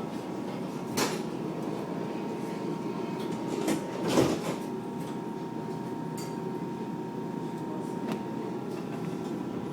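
Tram running on its rails, heard from inside the car: a steady rumble with a faint steady whine, and a few sharp knocks from the wheels, the loudest about four seconds in.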